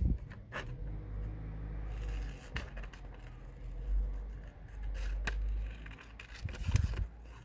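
Small scissors snipping and rustling through paper, cutting out a paper wing, as a series of short clicks over a low rumble.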